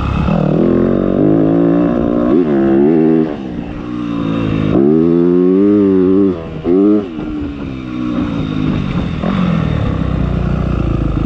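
Motocross motorcycle engine revving as the bike rides, its pitch climbing and falling repeatedly. The throttle drops off briefly about three seconds in and again around six seconds, then the engine runs more steadily near the end.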